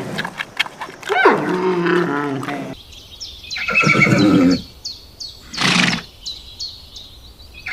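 Farm animal calls: a long wavering call with a falling glide, then after an abrupt change two shorter calls a couple of seconds apart. Faint, evenly spaced high chirps run behind the later calls.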